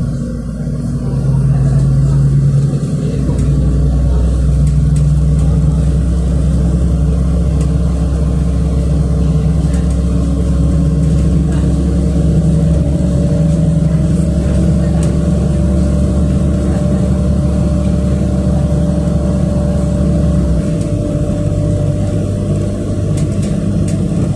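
City bus engine heard from inside the passenger cabin while driving, a steady drone with several low hum tones; the engine note changes about twenty seconds in.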